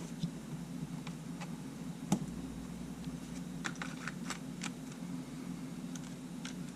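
Scattered small clicks and taps of hands working on a Sony A7 camera body and its parts, sharpest about two seconds in with a quick run of clicks around four seconds, over a steady low hum.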